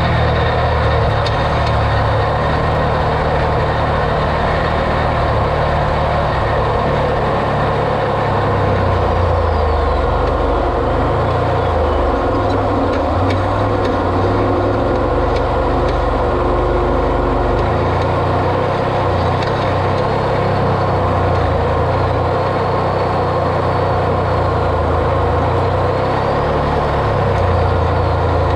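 A vehicle engine running continuously as it drives off-road. Its low drone shifts up and down in pitch as engine speed changes.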